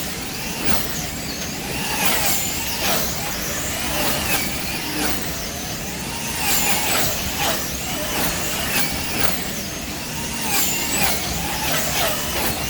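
Several wing slot cars racing, their small electric motors whining in overlapping high-pitched sweeps that rise and fall over and over as the cars speed up and brake around the track.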